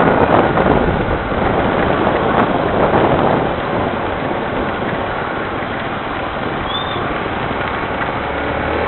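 Heavy rain falling, a steady rush of noise that swells in gusts during the first few seconds.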